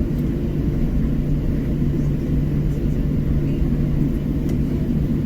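Steady low drone of an airliner's cabin noise, its engines and ventilation heard from inside the cabin while the plane waits on the ground before takeoff, with a constant low hum running through it.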